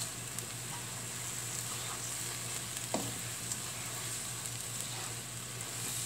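Chilli spice paste sizzling in a wok while it is stirred with a plastic spatula: a steady hiss with a few faint scrapes. Water and stock have just been added to the paste.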